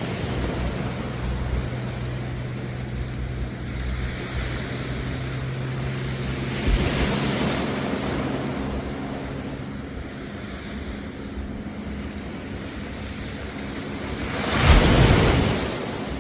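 Sea waves washing onto the beach, with one swell breaking about seven seconds in and a louder one near the end. Under the surf, a steady low motor hum fades out around the middle.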